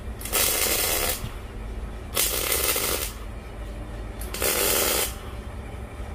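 Electric welder laying short tack welds on steel plate: three crackling, sputtering bursts of under a second each, about two seconds apart.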